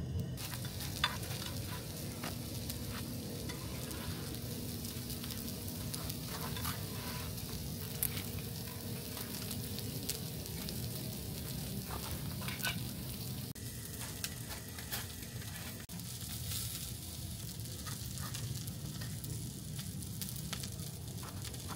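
Cheese-topped hamburger patties frying on a griddle: a steady sizzle with scattered sharp pops and crackles of fat.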